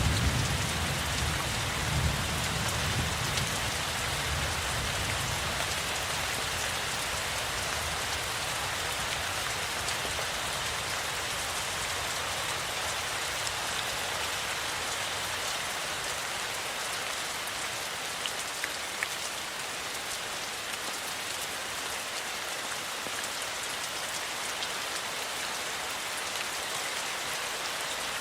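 Steady rain falling. A low thunder rumble dies away over the first few seconds.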